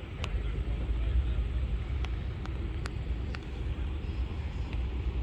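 Motorcycle engines running in a low, uneven mix, with a few sharp clicks in the first few seconds.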